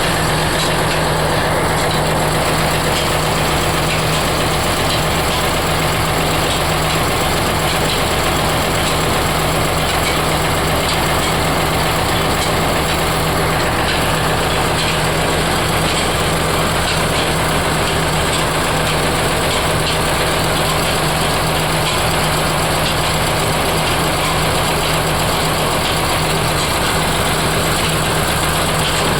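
Oil mill machinery running steadily: a constant low hum under a dense, even mechanical clatter that doesn't change.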